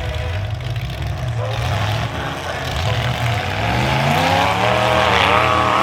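Demolition derby car engines running, with one engine revving up over the last two seconds or so, its pitch climbing steadily.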